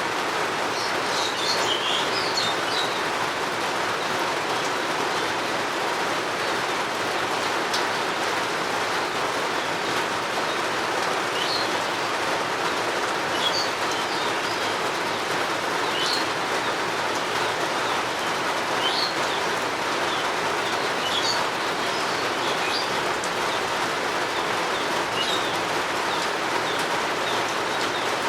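Steady rainfall, with a bird chirping briefly every few seconds above it.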